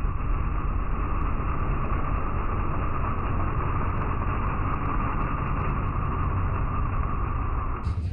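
A vehicle engine running steadily at the drag strip, heard muffled and dull with no rise or fall in pitch. The sound changes abruptly near the end.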